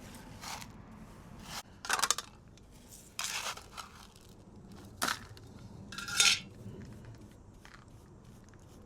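A few short metallic clinks and scrapes, four or five in all, the loudest about two seconds in and about six seconds in.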